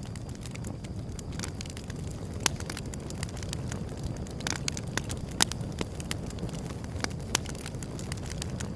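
Wood fire burning: a steady low rumble with scattered sharp crackles and pops, the loudest about five and a half seconds in.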